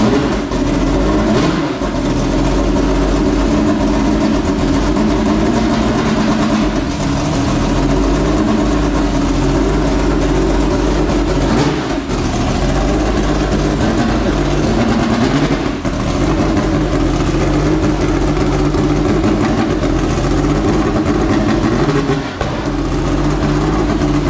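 Homemade Aardema Braun V12 engine running steadily at idle through its exhaust headers, with a few brief dips in level. It runs poorly, with camshaft position sensor sync problems.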